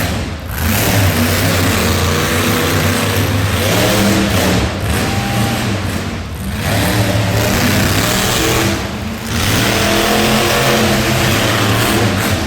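A vehicle engine revving up and falling back again and again, loud throughout, with brief lulls about half a second in, around six seconds and around nine seconds.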